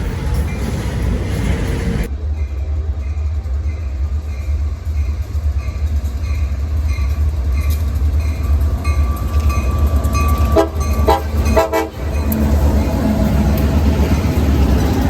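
Train rumbling past with a steady low rumble, a regular high ding about twice a second, and several short horn blasts about ten to twelve seconds in.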